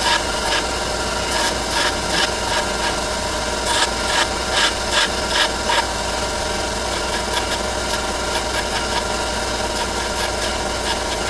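A motorised workshop tool running steadily with a constant hum, with rapid scraping and clicking over its first half.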